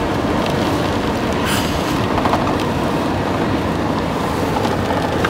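Steady rumble of a moving car heard from inside the cabin: tyre and road noise with wind.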